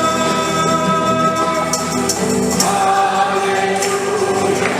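Choral hymn music with instrumental accompaniment: a held chord that moves to a new one a little over halfway through, with tambourine shakes in the second half.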